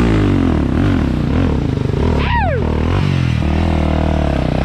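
Off-road ATV engine running and revving up and down at low speed. About two seconds in there is a brief high-pitched sound that sweeps up and falls away.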